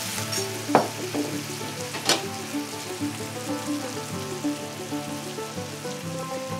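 Rice noodles, bean sprouts and sauce sizzling steadily on an electric hot plate at about 180 °C as they are stir-fried with chopsticks. Two sharp clicks come about a second and a half apart near the start.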